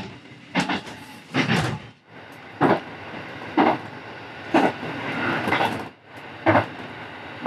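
Rapid Mie diesel railcar running along the line, heard from inside the car. Its wheels clack over rail joints about once a second over a steady running noise.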